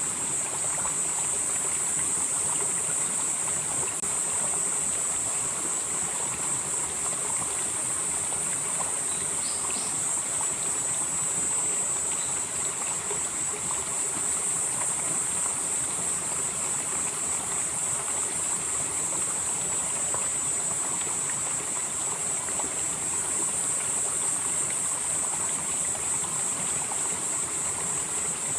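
Valley stream flowing steadily over rocks, with a high, continuous insect drone above the water.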